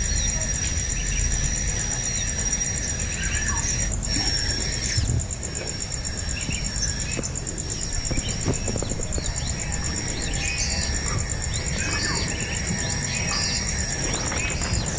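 Birds chirping in short, quick calls that come more often in the second half, over a steady high insect trill and a low rumble.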